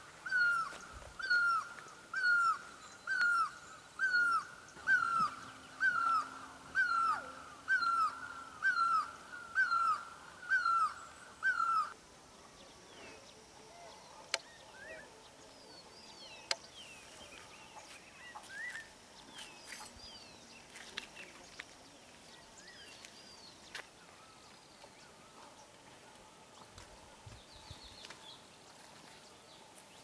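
A bird repeating one loud call about once a second, each a high note that drops at its end. About twelve seconds in it stops, and softer scattered chirps and short whistles of small birds follow.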